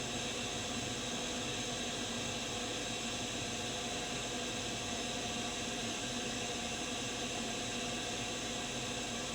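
CNC machining center running: a steady hiss with several steady tones, unchanging throughout.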